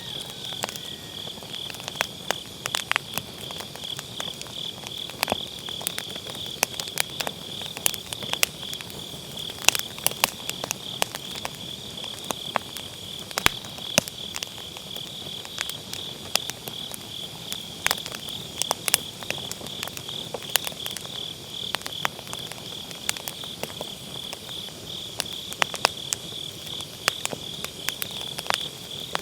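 Firewood burning in a fire pit, crackling with frequent sharp, irregular pops, over autumn grass insects chirping in a steady, finely pulsing high trill.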